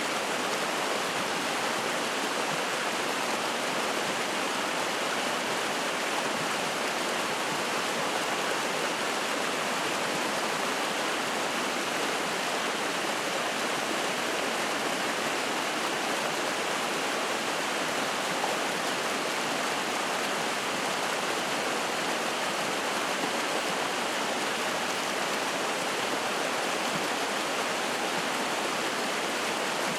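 Spring-fed mountain stream rushing and splashing over rocks, a steady, even water noise.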